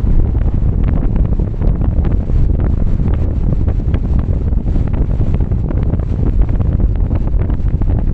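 Car driving in rain: a steady low rumble of wind and road noise buffeting the microphone, with frequent sharp ticks of raindrops striking.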